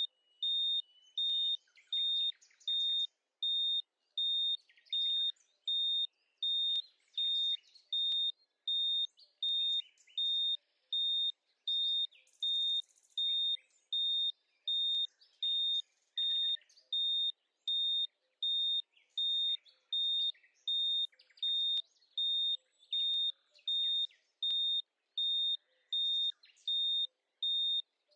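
Electronic timer alarm beeping: a high-pitched beep repeated evenly, roughly one every 0.7 seconds, signalling that the countdown has run out.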